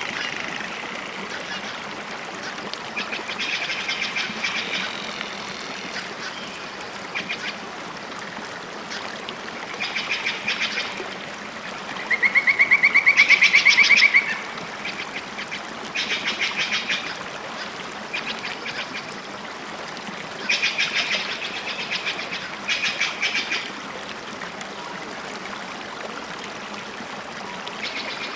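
Birds calling in short bursts of fast repeated high notes every few seconds over a steady rush of water. About twelve seconds in, a louder trill lasts about two seconds.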